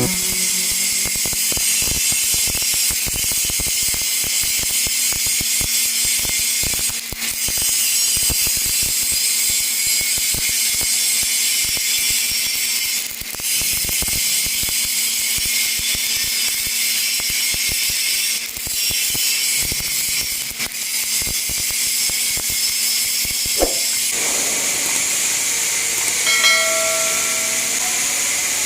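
Stick-welding arc from an E6013 electrode run at 90 amps on a vertical joint: a steady crackling hiss with a hum underneath and several brief dips. A short tonal squeal comes near the end.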